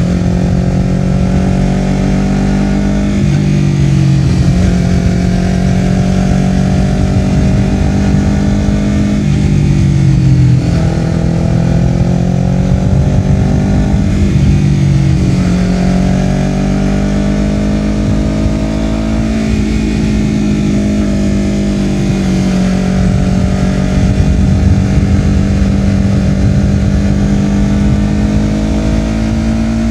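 Honda CBR250RR parallel-twin running through a Yoshimura R-11 slip-on exhaust while being ridden. The engine note climbs in pitch and drops back sharply several times as the rider works the throttle.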